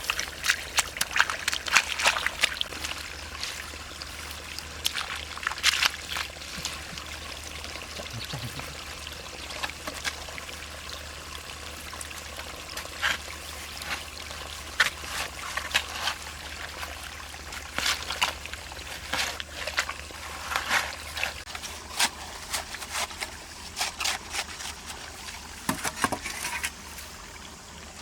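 Shallow paddy water splashing and trickling in irregular spurts as hands work through it, feeling for fish.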